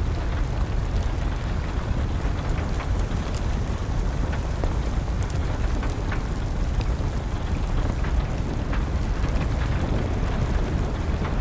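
Steady rainfall mixed with a crackling wood fire: a constant wash of rain over a deep low rumble, dotted with small, irregular pops and crackles.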